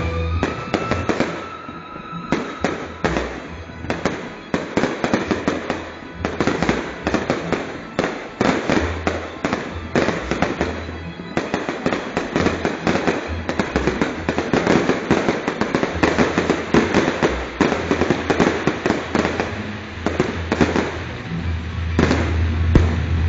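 Fireworks going off nonstop: a dense run of rapid crackles and bangs from aerial shells and ground fountains, with music playing underneath.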